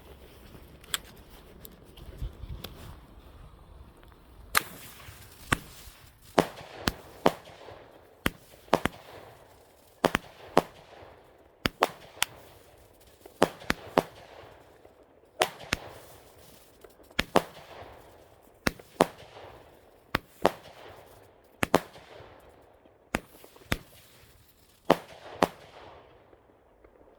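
Consumer firework cake firing: a long run of sharp bangs, irregular at about one to two a second, each followed by a short echo.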